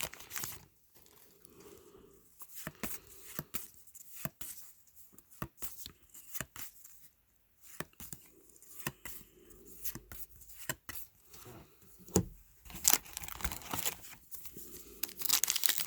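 Trading cards and their foil pack wrappers being handled: a string of light clicks and snaps as cards are flipped through, with denser crinkling of wrapper near the end.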